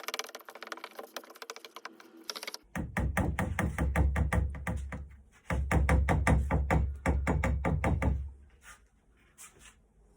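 Gypsum plaster being stirred by hand in a container: quick scraping and knocking strokes against the sides, with a short pause about five seconds in, and the stirring stops near the end.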